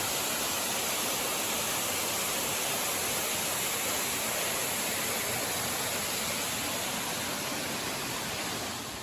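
Steady rush of a waterfall, an even hiss of falling water that eases slightly near the end.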